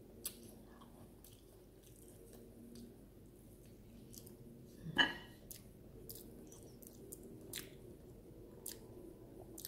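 A person chewing a mouthful of boiled sweet potato, with faint wet mouth clicks and smacks, and one short louder mouth sound about halfway through.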